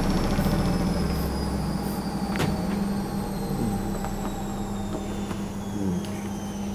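Washing machine on a high-speed spin, its drum and motor giving a steady hum with a high whine that falls slowly in pitch as the spin eases off, and a single sharp tick about two seconds in. The machine is held under the worktop by an inflatable vibration cushion, so it runs without banging.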